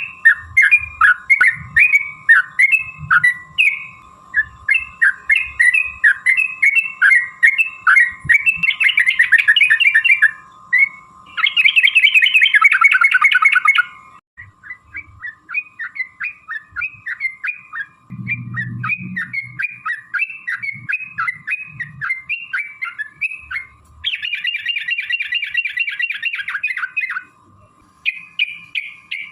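Yellow-vented bulbul (trucukan) song: a long run of quick, bubbly chattering phrases, broken up by faster rattling trills several times. A faint steady tone lies underneath.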